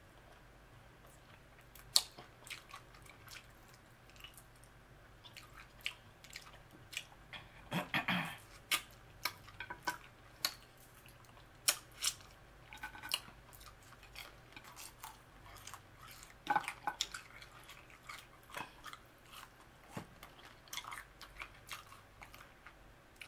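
Close-miked chewing of fried chicken wings and French fries: irregular crackly mouth clicks, smacks and crunches, with a few sharper ones scattered through.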